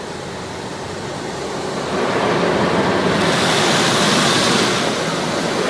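Automatic car wash spraying onto the car, heard from inside the cabin: a steady rushing hiss that swells about two seconds in and eases slightly near the end.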